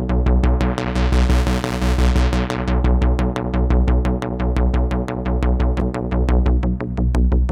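Electronic music from a Korg ARP 2600 FS synthesizer patch: a deep bass pulse a little more than once a second under rapid, even ticking and sustained pitched tones. A hissy noise swell rises about a second in and fades out by two and a half seconds.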